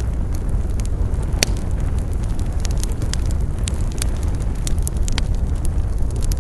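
Wood fire burning with a steady low rumble and irregular crackling, with a sharper pop about one and a half seconds in.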